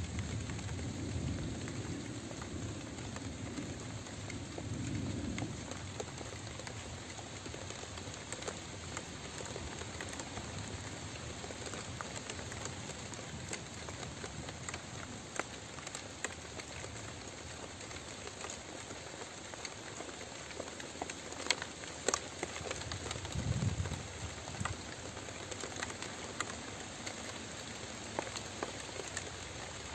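Steady rain falling, with many individual drops pattering and ticking on surfaces. A low rumble swells in the first few seconds and again briefly about two-thirds of the way through.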